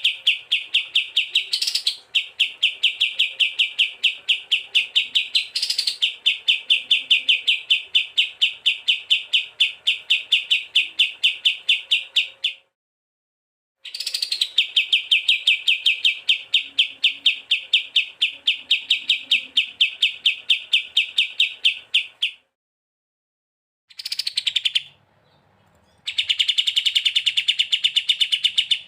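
A songbird chirping in long, fast runs of identical sharp notes, several a second. Some runs open with a short rising note. The runs break off a few times for a second or so and then start again.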